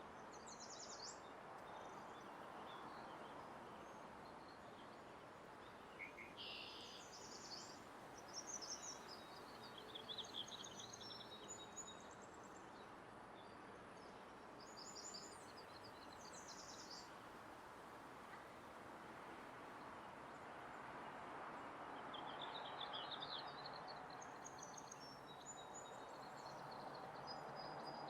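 Faint steady ambient background hum with small birds chirping now and then.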